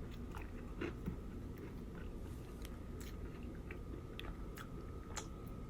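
Crisp thin-crust pizza crunching: faint, scattered crunches and clicks over a faint steady hum.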